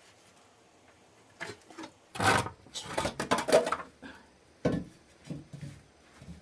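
A series of short scraping or rubbing strokes: a dense run of them, then a few more spaced out near the end.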